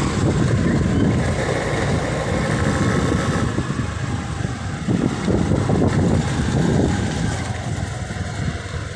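Steady wind rumble on the microphone mixed with vehicle and road noise, heard while riding along a road.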